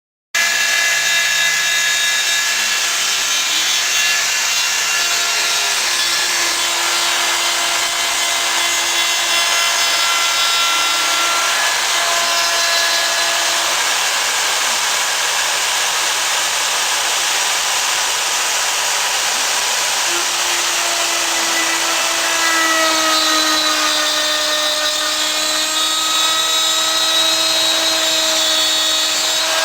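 Homemade CNC router running, starting abruptly just after the beginning: a steady machine whine and noise, with several motor tones that come and go and shift in pitch as it works.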